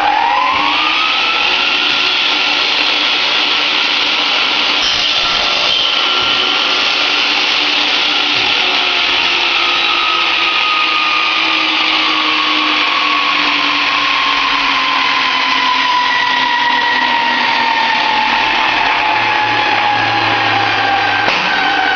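Electric power tool motor spinning up quickly, then running steadily, its pitch slowly sagging.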